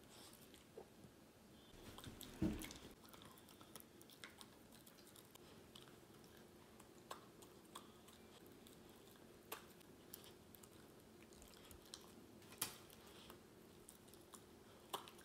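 Faint wet chewing, licking and smacking of an old chihuahua with only a few teeth gumming a soft agar-and-milk chew close to a microphone, with scattered small clicks. One louder thump comes about two and a half seconds in.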